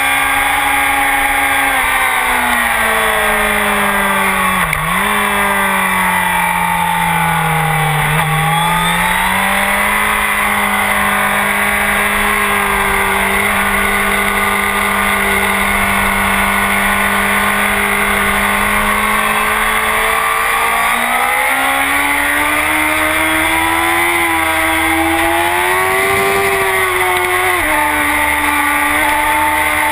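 Honda CBR1000RR's inline-four engine with a full Akrapovic exhaust, running hard on a racetrack. The engine note falls twice in the first eight seconds, holds steady for about ten seconds, then climbs over several seconds. Near the end the pitch drops suddenly, as at an upshift, and the engine pulls up again.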